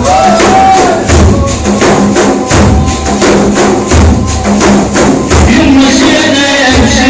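Percussion break in a religious praise song: a steady drum rhythm with sharp tambourine-like strikes and deep thumps about every one and a half seconds. A held melodic line comes in near the end.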